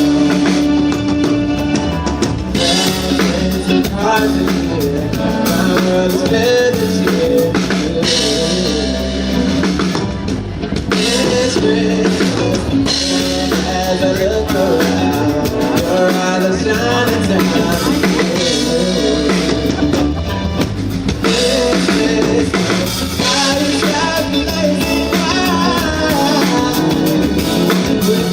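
A live band playing a rock-style song: drum kit, electric guitar and a singer.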